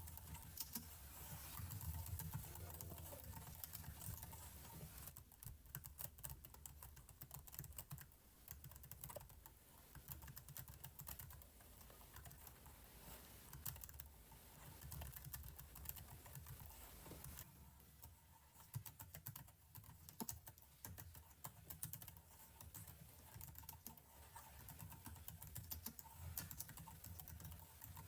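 Faint computer keyboard typing: irregular clicks and taps, over a low steady hum.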